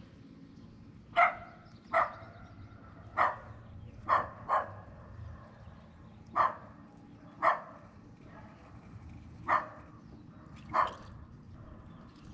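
Nine short, sharp bark-like animal calls, spaced irregularly about a second apart, over a low steady rumble.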